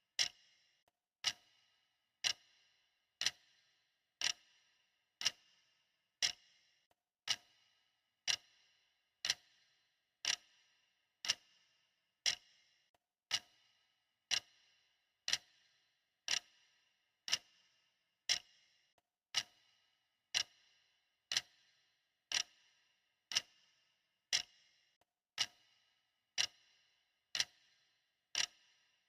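Clock ticking steadily, about one tick a second, each tick a sharp click with a short ringing tail.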